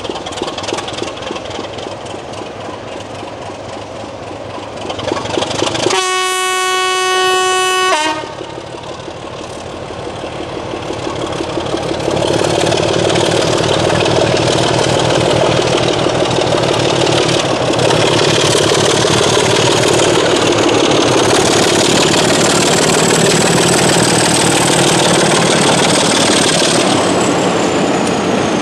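A heritage railway train sounds a single steady note on its horn for about two seconds, cutting off sharply. It then passes close by, louder, with its wheels clattering rhythmically over the rail joints and a high whine that rises and then falls away near the end.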